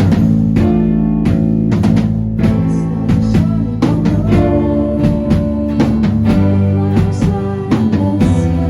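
A band playing live: guitar and drum kit with a steady beat, in a passage with no vocal line picked out.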